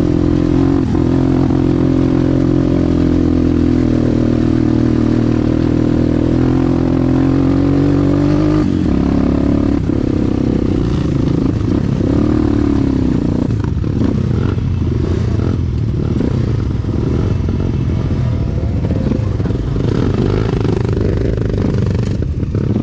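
Motorcycle engine running under way, holding a steady note for the first nine seconds or so, then easing off into a rougher, clattery low rumble for the rest.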